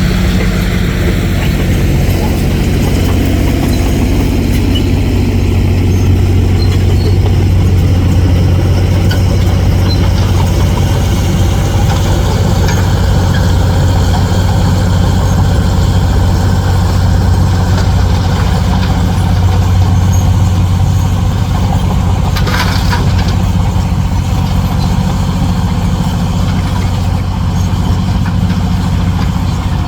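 Heavy dump truck's diesel engine running steadily at a low, even speed, with a brief noise about three-quarters of the way through.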